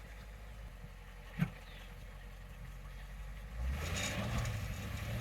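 Dodge Challenger SRT8's 6.1 Hemi V8 idling, with a single sharp click about a second and a half in; near the end the engine revs up and grows louder, building toward a line-lock burnout.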